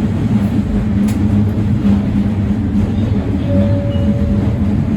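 Diesel railcar running along the line, a steady low engine drone with rolling noise, heard from the driver's cab. A single sharp click about a second in.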